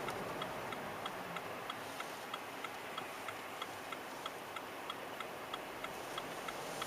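Car turn-signal indicator ticking steadily, about three ticks a second, over a steady hiss.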